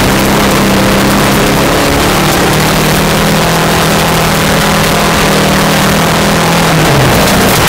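VW Beetle rally car's engine heard from inside the car, pulling along a gravel road. Its pitch climbs slowly for several seconds, then drops sharply about seven seconds in. A steady hiss of tyres on gravel runs underneath.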